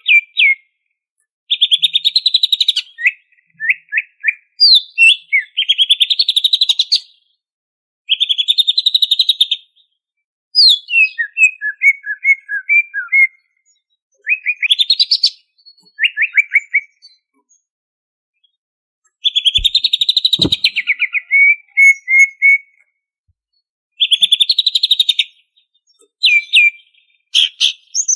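Cucak ijo (greater green leafbird) singing in loud phrases of rapid chattering trills and whistled notes, each one to two seconds long, with short silent gaps between them. Two faint low thumps about two-thirds of the way through.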